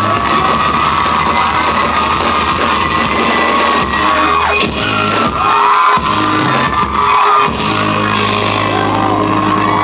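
Amplified live band music with steady bass notes, drowned by an audience yelling and screaming over it, the sound filling a large hall.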